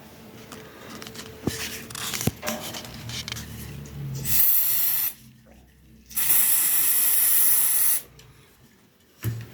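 Aerosol spray can released in two bursts of hiss, a short one and then a longer one of about two seconds. Light handling knocks come before them and a short thump near the end.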